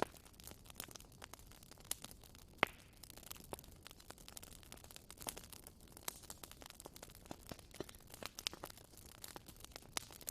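Campfire crackling: wood burning with a soft hiss and irregular sharp pops and snaps, the loudest pop about two and a half seconds in.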